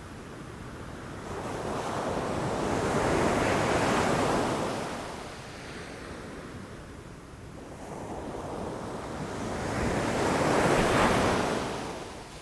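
Ocean waves breaking against rocks, two swells of surf that build and wash away, the second peaking near the end. Some wind noise on the microphone.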